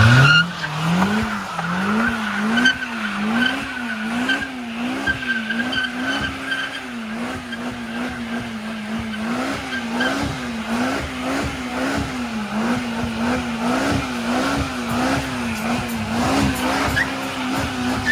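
Engine revved hard, climbing in the first second and then rising and falling in pitch about one and a half times a second as the throttle is worked, with tires skidding and squealing as the vehicle spins on bald tires.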